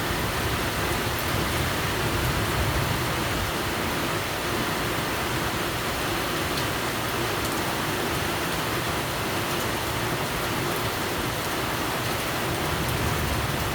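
Steady heavy rain falling, a constant even hiss with a low rumble beneath.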